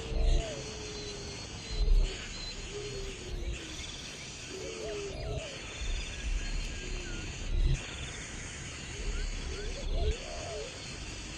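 Wild birds calling: short low cooing and gliding notes, with a few higher chirps, over a steady high insect-like hiss. Low thumps recur every second or two.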